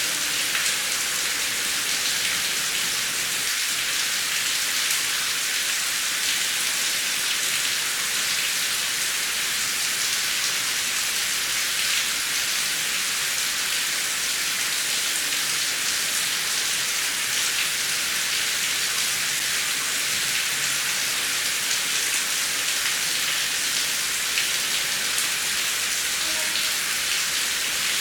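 Heavy rain falling steadily, a dense even hiss with scattered individual drop hits and no thunder.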